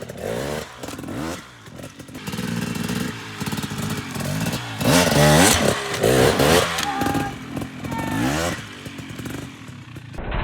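Two-stroke dirt bike engine revving in repeated sharp throttle blips, the pitch rising and falling several times, loudest about halfway through. These are the bursts of throttle with a clutch pop used to get the bike up and over a log.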